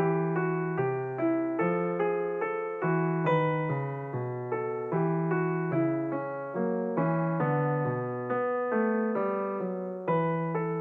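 Background piano music: a slow, even melody of struck notes, each dying away, about two notes a second.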